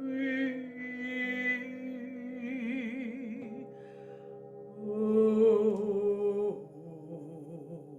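Wordless vocal toning: a woman's voice holding long notes with a wavering vibrato, layered over steady held tones, swelling loudest about five seconds in and then easing off.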